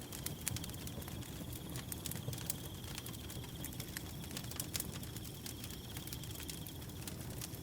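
Wood fire burning with scattered sharp crackles and pops over a low, steady rumble. A cricket trills steadily and high-pitched throughout, pausing briefly near the end.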